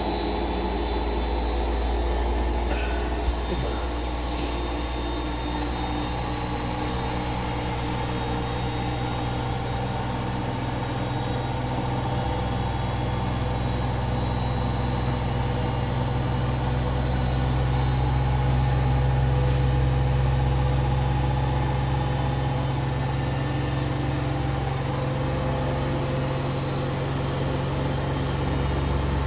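Siemens washing machine in its spin cycle: the drum spins with a steady motor hum, swelling slightly a little past the middle. One brief click about three seconds in.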